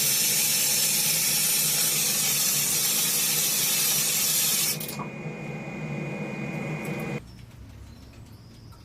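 Steady loud hissing spray that stops about five seconds in, followed by a quieter hum with a thin steady tone that cuts off about seven seconds in.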